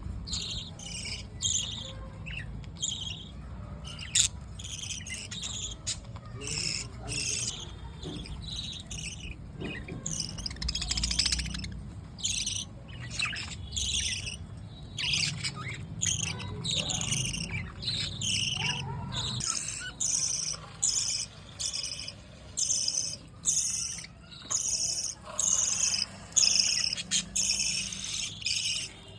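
Budgerigars chattering: a continuous run of rapid, high chirps and warbles. A low background hum underneath stops about two-thirds of the way through.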